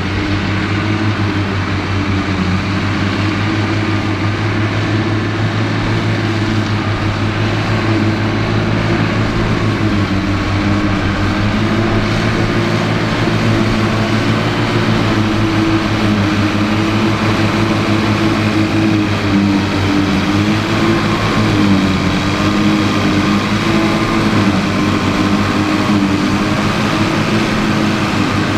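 Tractor diesel engine working steadily under load, its pitch dipping and recovering slightly around the middle, with a trailed forage harvester running behind it.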